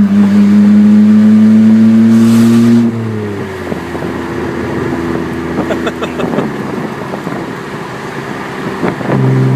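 2001 BMW 325i's 2.5-litre straight-six running with no exhaust past the headers, loud and open. It is held at raised revs for about three seconds, falls back to a lower steady idle, then is revved up again near the end.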